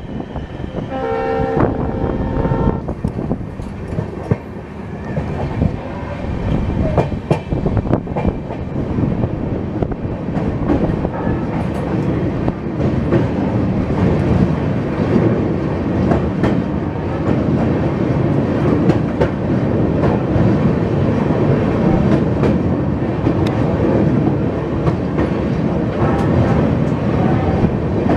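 A train horn sounds for about two seconds near the start. The train's running noise continues throughout, with the rumble and click of coach wheels over the rails. It grows steadily louder as the train crosses a steel girder bridge.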